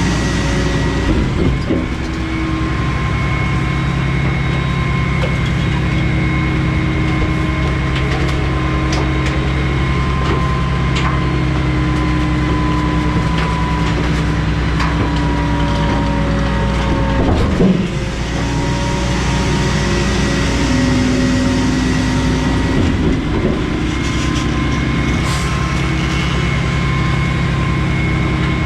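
Garbage truck's diesel engine and hydraulic packer running as the load is compacted in the hopper: a steady drone with a whine of several tones that slowly drifts in pitch, changing about 17 seconds in as the packer cycle shifts, with occasional knocks.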